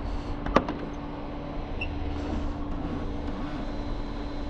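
Tow truck's engine idling steadily, a constant low rumble with a steady hum, and a single sharp click about half a second in.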